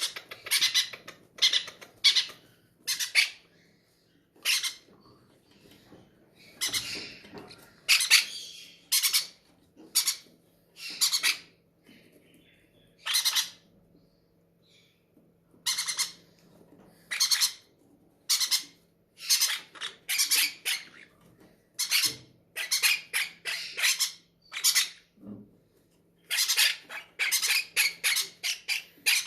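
Hungry baby parrot chicks giving harsh, raspy food-begging squawks in short, irregular runs with brief pauses between them.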